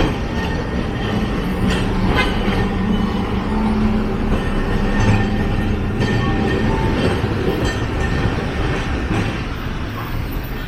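Nagasaki Electric Tramway streetcar running along its street track: a steady rumble of wheels on rail with a low motor hum, and a few clicks about two seconds in.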